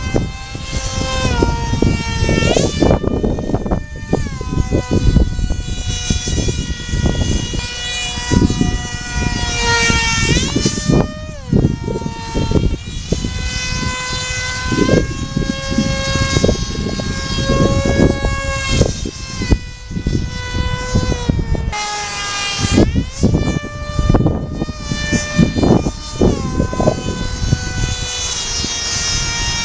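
Electric motor and propeller of a small RC model jet whining in flight, its pitch climbing and dropping repeatedly as the throttle changes and the plane passes. Heavy wind buffets the microphone with a gusty low rumble throughout.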